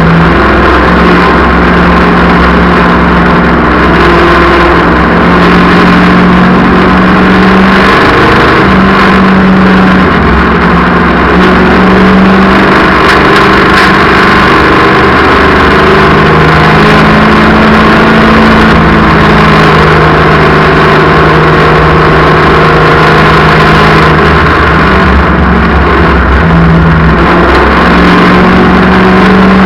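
Race car engines running at full racing speed, very loud and overloading the microphone. Their pitch rises and falls as the cars accelerate and lift, with two engines at different pitches overlapping at times.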